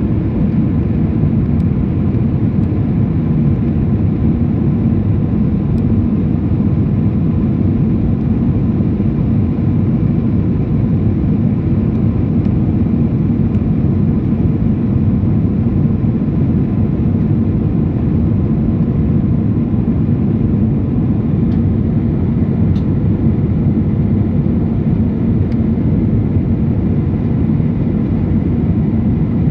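Steady low roar of an Airbus A319's jet engines and airflow heard inside the passenger cabin, even throughout, with a faint steady whine above it and a few tiny clicks.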